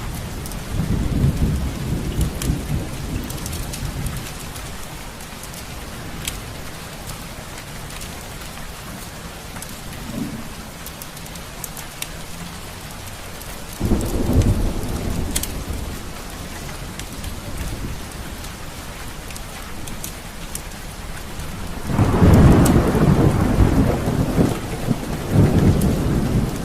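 Steady rain falling with rolling thunder that swells three times: near the start, about halfway through, and loudest near the end. Scattered sharp pops sound over the rain, in keeping with a crackling fireplace fire.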